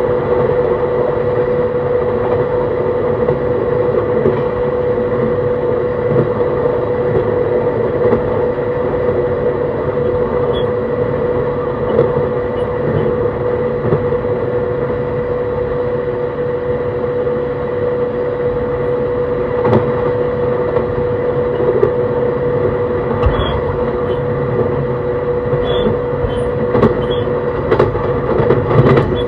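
Running sound of an E131 series 600-subseries electric train heard from on board: steady rolling noise from the wheels on the rails, with an unchanging hum at a steady speed. Several short clicks and knocks come near the end.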